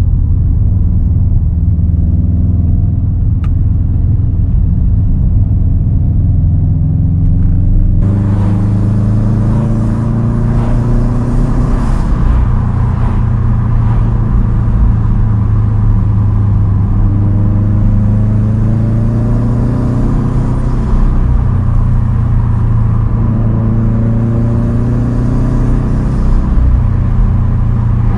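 2010 Subaru WRX STI's turbocharged 2.5-litre flat-four running through a Tomei Expreme Ti straight-pipe exhaust, its rumbling note climbing in pitch several times as it pulls through the gears. About eight seconds in, a hiss rises suddenly and stays.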